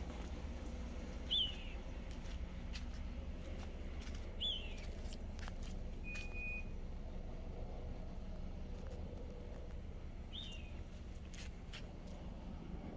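A bird giving a short, falling chirp three times, over a steady low outdoor rumble.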